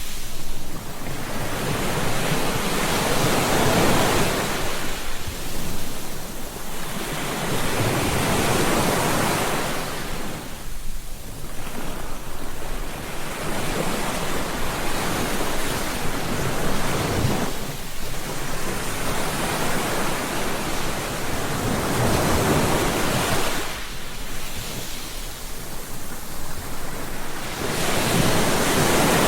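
Ocean waves breaking on a beach, a steady wash of surf that swells and falls back every several seconds.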